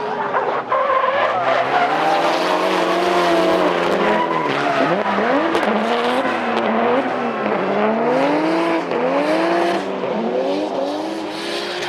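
Drift cars in a battle, engines revving hard with the pitch swinging up and down as the throttle is worked, about once a second from about five seconds in, over tyres squealing and skidding.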